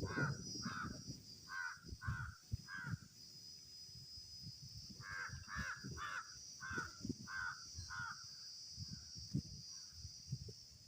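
A crow cawing repeatedly: a run of about five harsh caws, a pause of about two seconds, then another run of about seven. A steady high-pitched hiss sits underneath throughout.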